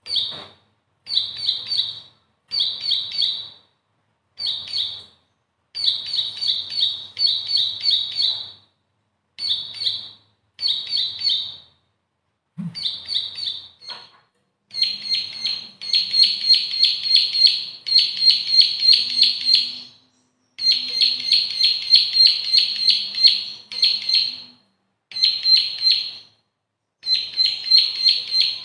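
Bar-winged prinia (ciblek) singing: short phrases of rapid, high chirping notes with brief pauses between them, lengthening into long unbroken runs of chirps from about halfway through.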